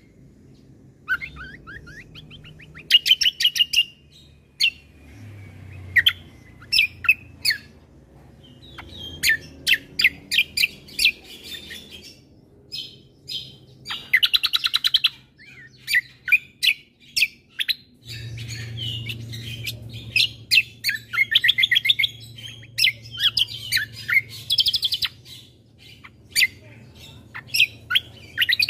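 A cucak kombo (kecial kombo) singing its varied chattering song: quick runs of sharp chirps and short rapid trills, in bursts broken by brief pauses. A faint low hum sits underneath.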